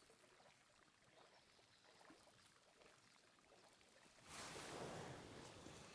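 Near silence, then a faint, even rushing noise that comes in about four seconds in and slowly eases.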